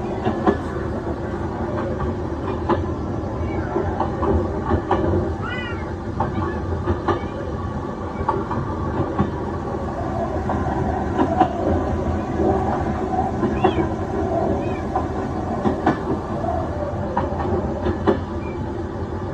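Train running on the rails: a steady rumble with irregular clicks and knocks, and a few short high squeaks.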